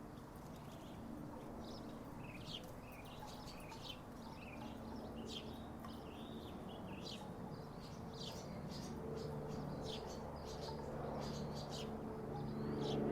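Small birds chirping repeatedly in short, quick notes over a low background rumble, with a low steady hum building up in the last few seconds.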